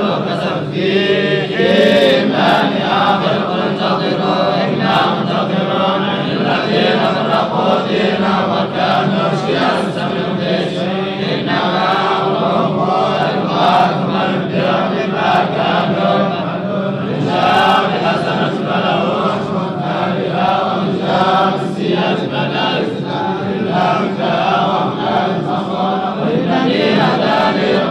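Qur'an recitation chanted aloud, a steady unbroken stream of chanting in which several voices seem to sound together.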